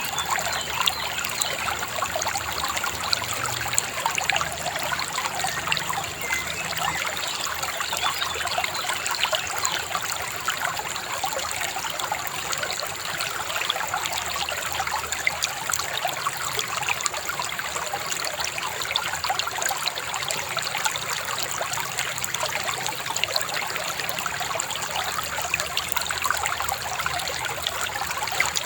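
Shallow river babbling and trickling steadily, with a dense, even patter of small splashes.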